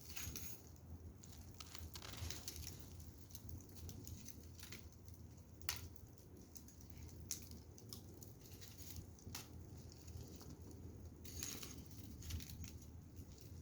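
Firewood fire crackling faintly, with irregular sharp pops every second or two over a low steady rumble.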